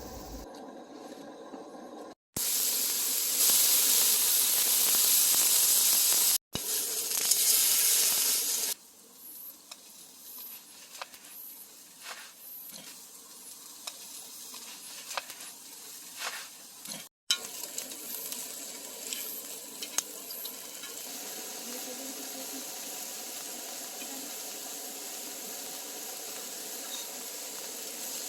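Food sizzling as it cooks on a hot pan or grill, heard in several short stretches broken by sudden cuts; the sizzle is loudest a few seconds in, with light clicks of utensils in the middle part.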